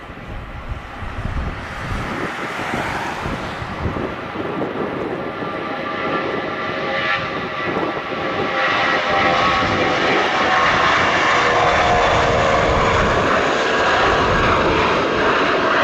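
Airbus A320 jet engines at take-off power during the take-off run. The sound grows louder over the first eight seconds and then holds loud: a rushing roar with a chord of engine tones that dips slightly in pitch near the end.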